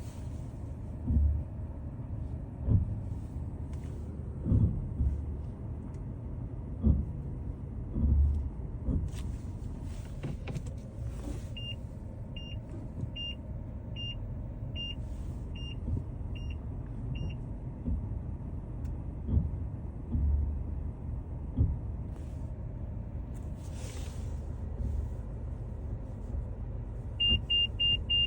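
2022 Mazda 6 moving slowly with a steady low rumble and repeated short, low grinding bursts from the brakes, several in the first ten seconds and a few more about twenty seconds in. A high electronic beep repeats evenly in the middle, and faster beeps start near the end.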